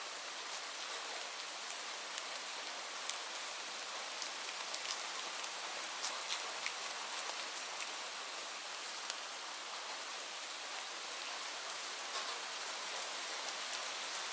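Steady rain falling on leaves, an even hiss with many scattered, distinct drop ticks.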